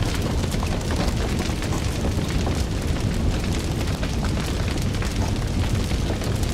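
A fire burning with a steady low roar and many small crackles and pops throughout.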